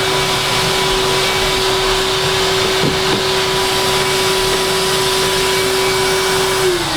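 Vacuum cleaner running steadily, picking up dust from a freshly sanded floor, with a constant motor whine over a hiss of air. Near the end the whine starts falling in pitch as the motor is switched off and spins down.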